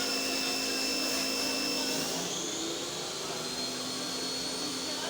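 A motor running with a steady high whine over a rushing noise, changing pitch about two seconds in and turning slightly quieter.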